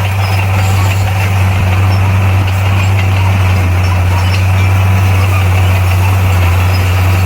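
Bulldozer's diesel engine running steadily at an even speed, a loud continuous low hum.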